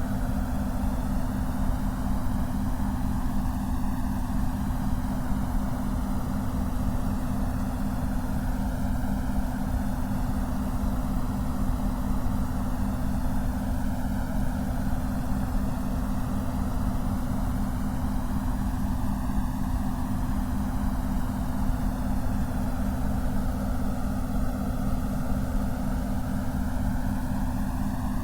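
Synthesized concentration noise: a steady rushing noise weighted toward the low and middle range, with slow swooshing phaser-like sweeps, and beneath it a low hum of close-set tones that pulses quickly.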